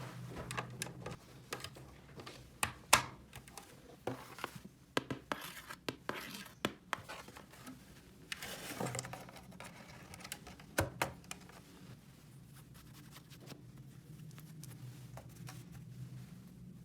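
Small plastic toy pieces being handled: irregular clicks and taps with some scraping, the sharpest click about three seconds in and a brief rustle or scrape around nine seconds.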